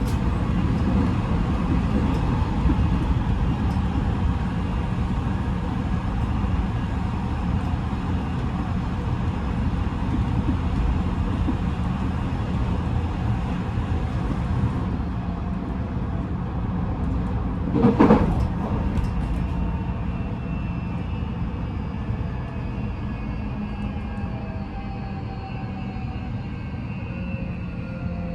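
Odakyu 5000-series electric train running, heard inside a motor car: steady wheel-and-rail rumble, with a sharp clatter about two-thirds of the way through. After that, the traction motors' whine under the Mitsubishi full-SiC VVVF inverter falls slowly in pitch as the train slows.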